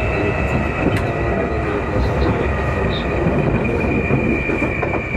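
Running sound heard from inside a Keikyu 2000 series electric train car, Deha 2052: a continuous rumble of wheels on rail with a steady high whine from the car's traction motors, which are thought to be Mitsubishi-made and give this car a different motor sound from the rest of the set.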